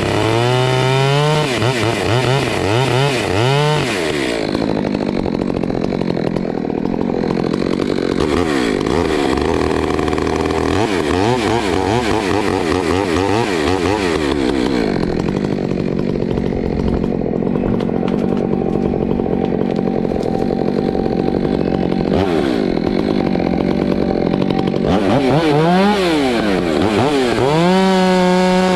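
Stihl MS 462 two-stroke chainsaw running at full throttle. It revs up and down near the start and again near the end. In between, its note drops and wavers as the chain bites into wood under load.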